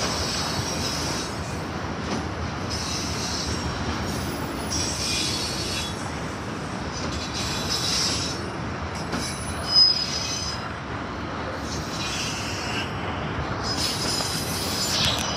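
Autorack freight cars rolling past, their wheels squealing high on the rails in squeals that come and go every second or two over the steady rolling noise of the train. A single short, loud knock about ten seconds in.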